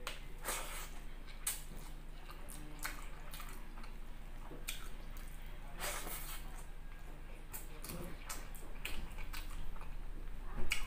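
Wet chewing and lip-smacking of a person eating saucy rice by hand, heard as irregular sharp, wet mouth clicks.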